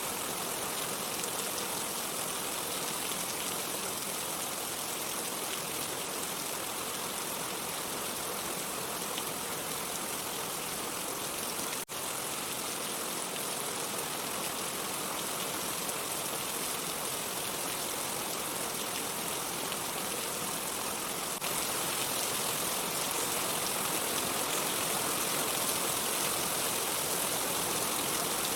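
Steady rain, a dense even hiss with no thunder rumble. There is a momentary dropout about twelve seconds in, and the rain gets a little louder about twenty-one seconds in.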